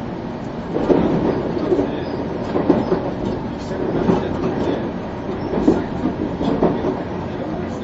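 Inside a JR 373 series electric train running along the line: a steady rumble with irregular clattering knocks from the wheels and track, about one a second.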